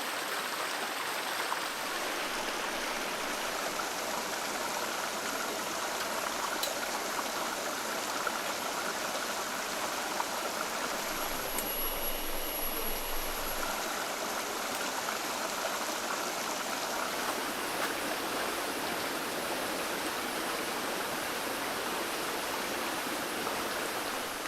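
Steady rush of flowing water from a forest stream, even and unbroken, with a faint thin high whine above it.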